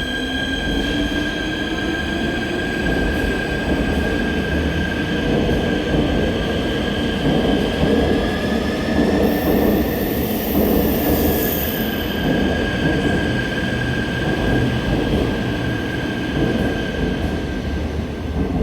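Seoul Subway Line 4 electric train running past the platform: a heavy rumble of wheels on rail with a high steady wheel squeal, and a motor whine rising in pitch over the first few seconds. It is loudest about halfway through, as the cars pass closest.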